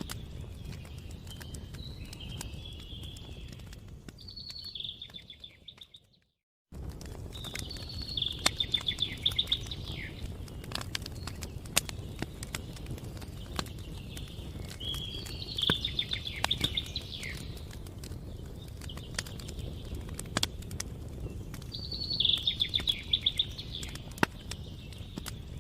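Campfire crackling with frequent sharp pops over a low steady rumble, while a songbird sings short trilling phrases every several seconds. The sound fades and cuts out completely for under a second about six seconds in.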